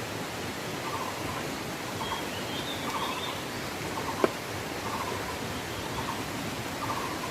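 A short animal call repeating about once a second over a steady rushing hiss, with a brief higher chirp about two to three seconds in and a single sharp click about four seconds in.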